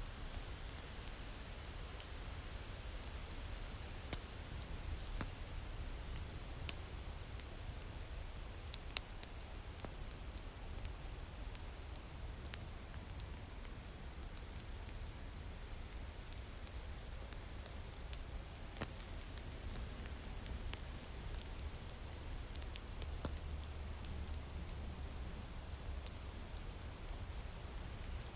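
Winter wind ambience with a steady low rumble, and a wood fire crackling with scattered, irregular sharp pops and snaps.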